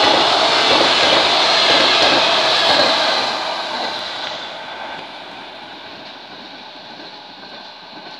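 Passenger coaches of a fast train running past on the rails, a loud rush of wheel and rail noise that fades away over about two seconds as the last coach passes and the train pulls off into the distance.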